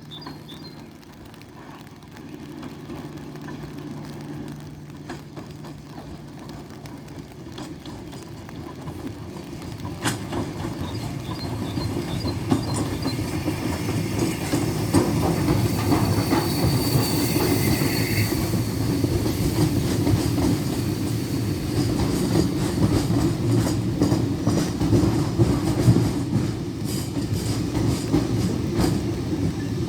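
Steam-hauled train approaching and running past, getting louder from about eight seconds in and staying loud through the second half.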